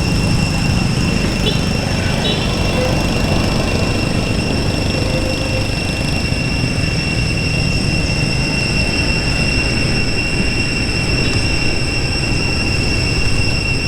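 Steady high-pitched insect drone, several unbroken tones held at once, over a low rumble of outdoor background noise.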